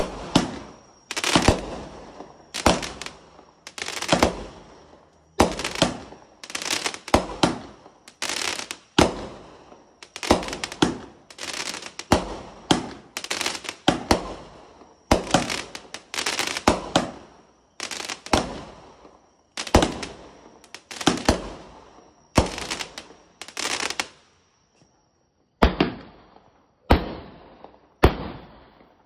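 A fireworks cake firing shot after shot: a loud bang about every second and a half, each one fading away before the next, the last few sounding duller and a little further apart.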